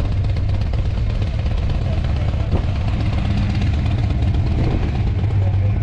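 Classic car engine running at low speed with a steady, deep rumble as the car rolls slowly past.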